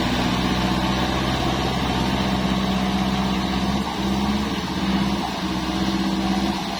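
Kubota MU4902 tractor's diesel engine running steadily, its note dipping briefly a few times in the second half.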